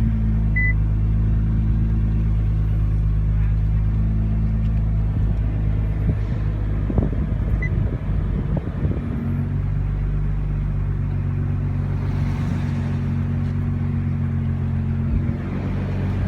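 Nissan GT-R engine idling steadily after a rev, with a few light knocks and rattles near the middle.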